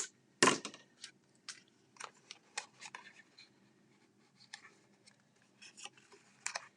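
Paper being handled and fitted into place: a scattering of light clicks and rustles, with one louder crackle about half a second in.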